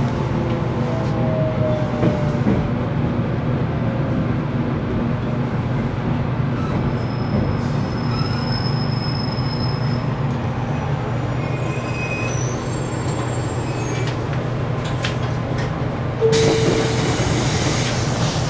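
JR Kyushu 813 series electric train running slowly through a station, heard from inside the cab: a steady rumbling run with a falling motor whine early on and thin, high brake squeals. Near the end a sudden louder hiss sets in.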